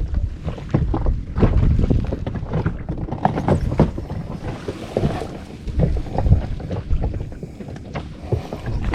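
Wind buffeting the microphone over water slapping against a small inflatable boat, with irregular sharp knocks.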